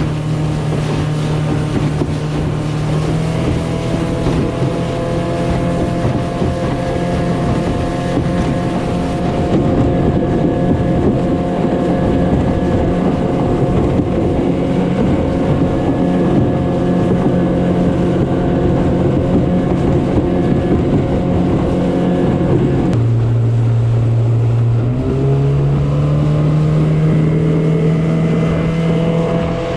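Mercury 15 hp two-stroke outboard running the skiff at steady speed. About three-quarters of the way through, the revs drop for about two seconds and then climb back up.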